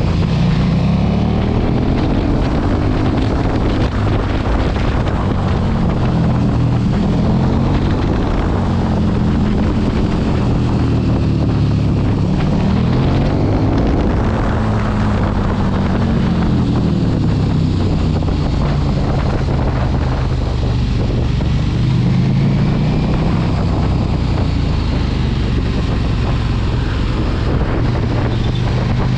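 Sport motorcycle engine revving up and dropping back again and again as the bike accelerates and slows, under heavy wind noise on the microphone.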